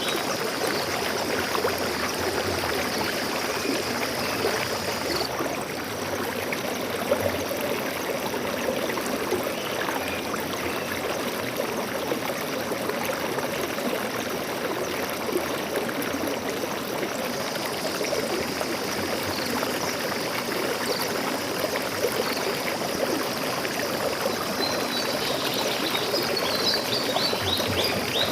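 Flowing stream water, a steady rushing and trickling. Near the end, a few high bird chirps sound over the water.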